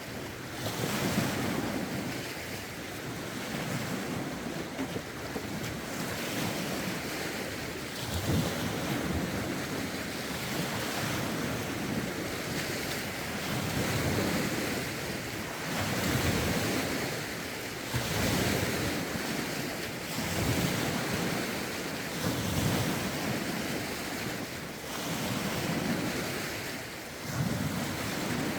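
Lake waves washing in, in surges every two seconds or so, stirred up by a rough wind. Wind buffets the phone's microphone.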